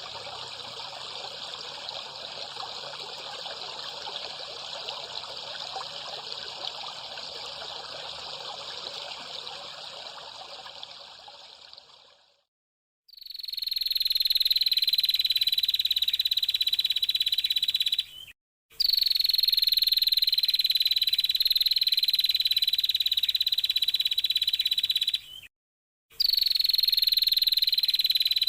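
Recorded nature sounds played for bird training. First comes a steady rushing hiss like running water, which stops after about twelve seconds. After a short silence comes a loud, steady, high-pitched buzzing call that drifts slightly down in pitch, repeated as a looped clip with two brief silent breaks.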